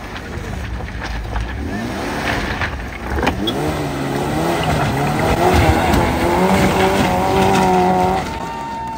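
Maruti Gypsy's engine revving up and down as it crawls over rocks, then held at high revs under load for several seconds while the wheels spin and scrabble in loose stones. It eases off near the end.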